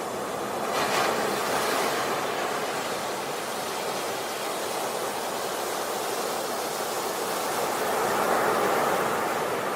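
Sea waves breaking and washing up a beach, the surf swelling about a second in and again near the end.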